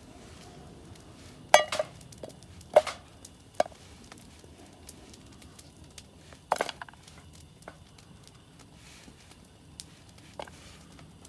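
Cookware and utensils clinking and knocking: a few sharp, briefly ringing clacks, the loudest about one and a half, three and six and a half seconds in, with lighter taps between.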